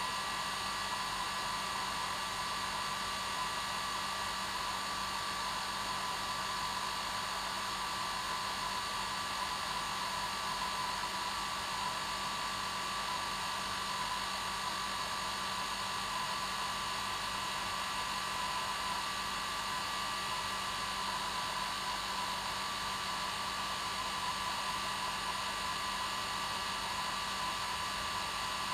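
Hair dryer running steadily on its normal setting: a constant rushing hiss of blown air with a steady motor whine, unchanging throughout.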